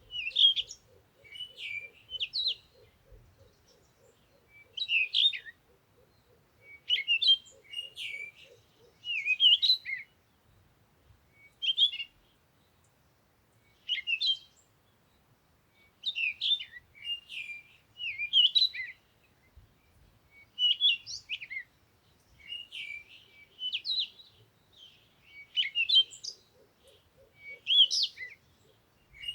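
Songbirds singing in short, high chirping phrases that repeat every second or two. A fainter low, rapidly pulsing trill runs under them in the first third and returns near the end.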